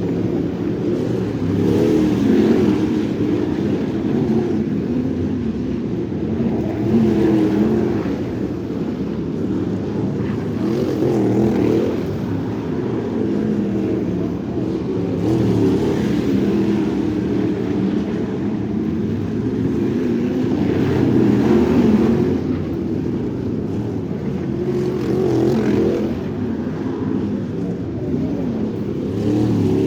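Crate sprint car's V8 engine running hard at racing speed, the revs swelling and easing every four to five seconds with the throttle through each lap of the dirt oval.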